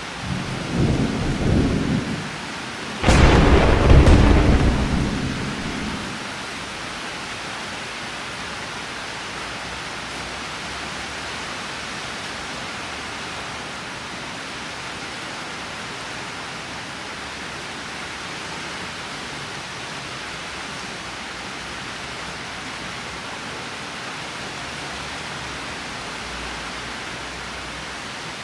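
Steady rain with thunder: a low rumble in the first couple of seconds, then a sharp, loud thunderclap about three seconds in that rolls and dies away over the next few seconds, leaving the rain.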